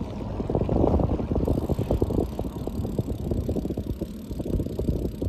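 Wind buffeting the microphone on a moving bicycle: a low, gusty rumble with rapid irregular flutter, easing slightly near the end.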